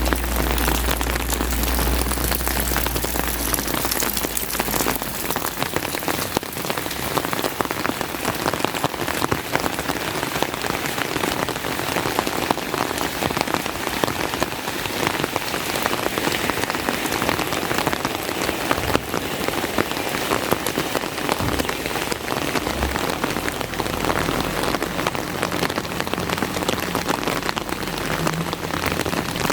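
Steady rain falling hard, a dense hiss thick with individual drops ticking. A low rumble fades out about five seconds in.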